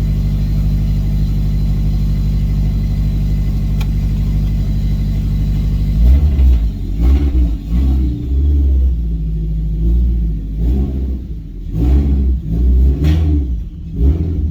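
Flat-four engine of a Toyota 86-type car breathing through a factory TRD quad-tip exhaust with its resonator removed: a steady idle, then from about six seconds in a series of throttle blips that rise and fall in pitch.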